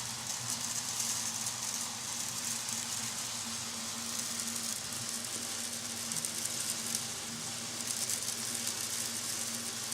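Handheld shower head spraying water, a steady even hiss, with a faint steady hum underneath.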